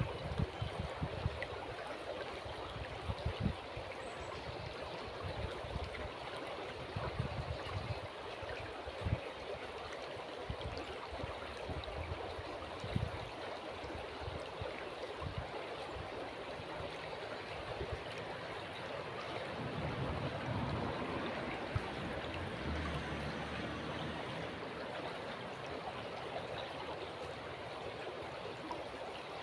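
River water flowing steadily with a gentle babble and trickle. Low rumbling gusts of wind buffet the microphone now and then, most at the start and again about two-thirds of the way through.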